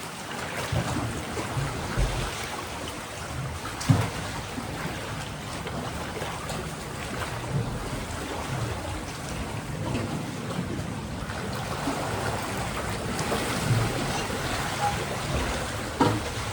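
Sea waves washing against a rocky shore: a steady surf wash, with a few short sharp splashes or knocks, one about four seconds in and another near the end.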